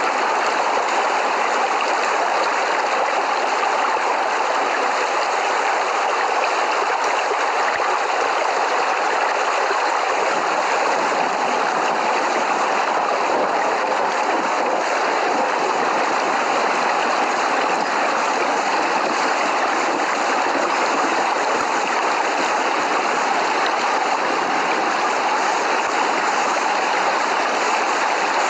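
Steady heavy rain, an even hiss with no thunder claps.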